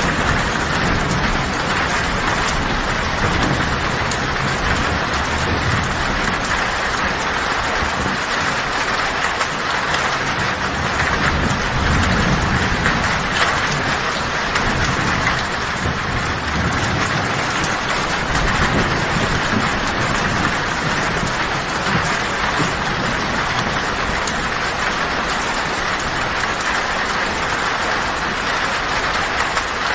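Heavy rain falling steadily on a tin roof, with thunder rumbling low underneath at times.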